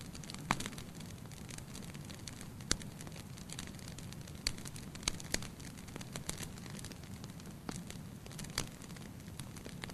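Wood fire burning in a fireplace: a steady low rush of flames with irregular sharp crackles and pops, the loudest about half a second in, near 2.7 s, and a cluster around five seconds in.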